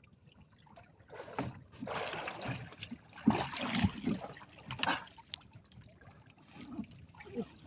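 Water splashing and sloshing in irregular bursts, loudest a couple of seconds in and again about five seconds in, with a few sharp knocks.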